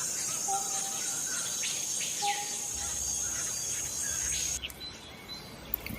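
Steady high-pitched insect chirring with a few short, falling bird calls over it. The recording cuts off abruptly about four and a half seconds in.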